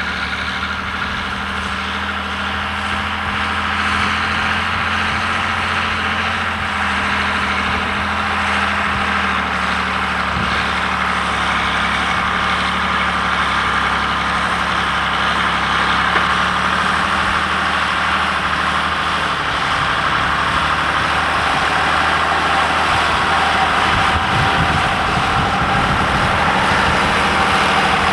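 John Deere 3350 tractor's diesel engine running steadily under load while pulling a plough, with a high whine over the engine note and a rougher low rumble near the end.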